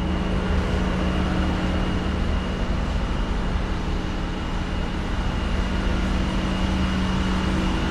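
Steady mechanical hum from a running machine, holding a constant low tone with a faint, steady high whine above it.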